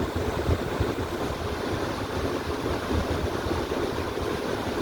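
Steady running rumble inside an R179 subway car, with the wheels rolling on the rails.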